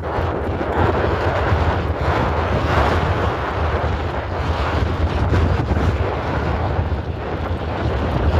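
Very strong wind buffeting the microphone: a continuous heavy low rumble with a rushing hiss over it, rising and falling a little in gusts.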